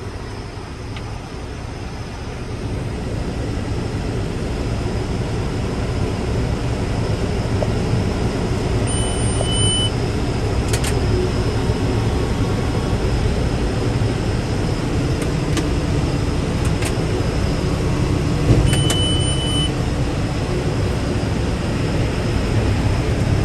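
Tractor engine and PTO-driven round hay baler running steadily, building a little over the first couple of seconds. Two short high electronic beeps come about 9 and 19 seconds in, with a knock just before the second.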